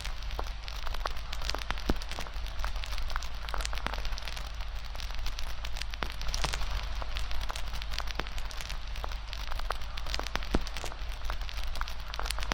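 Wood campfire burning, with a steady hiss and constant irregular crackles and sharp pops.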